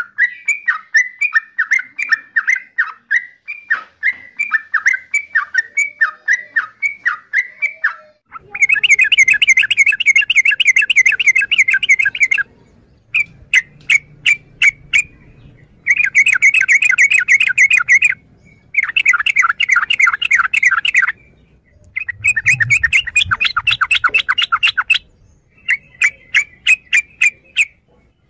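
Yellow-vented bulbul calling. It starts with a run of quick bubbly notes, two or three a second. From about eight seconds in, it switches to rapid chattering trills in bursts of a few seconds with short breaks between them.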